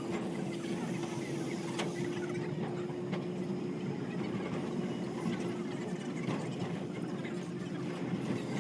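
Narrow-gauge train with an Mk48 diesel locomotive running, giving a steady low drone with a held tone and a few faint clicks.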